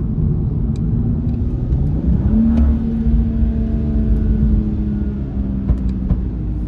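BMW 435i's turbocharged straight-six on a stage one remap, heard from inside the cabin over road rumble. The engine drone rises in pitch about two seconds in as the revs climb, holds steady, then eases down slightly near the end.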